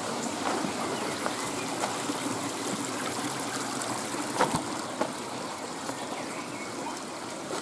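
A stream running steadily with an even rush of water, and a single sharp knock about halfway through.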